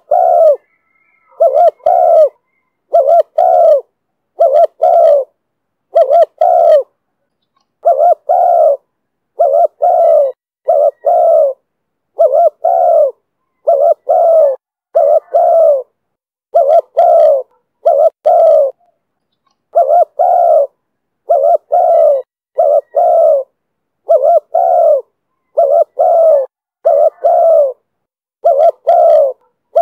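Spotted dove cooing over and over: low coo notes in quick groups of two or three, with short pauses between the phrases. The call is of the style that Vietnamese dove keepers call 'thổ thúc bổi'.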